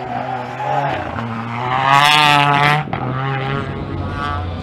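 Rally car engine revving hard as the car accelerates out of a tight hairpin, climbing to a loud, high-pitched peak about two seconds in and then dropping away sharply just before three seconds.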